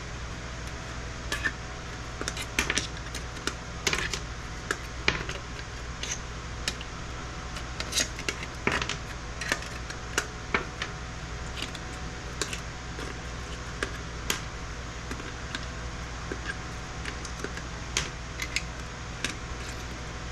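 Irregular sharp clicks, snips and clinks of hand tools working on circuit boards as components are cut and pried off, over a steady low hum.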